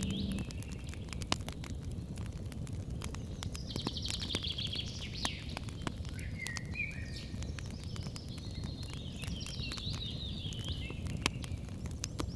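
Wood campfire crackling with scattered sharp pops. Songbirds sing short trilling phrases three times.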